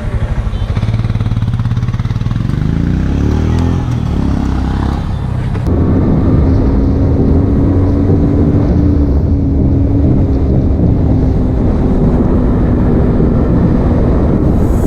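Motorcycle engine accelerating, its pitch rising through the first few seconds, then running steadily at speed after an abrupt change about six seconds in, with heavy low rumble.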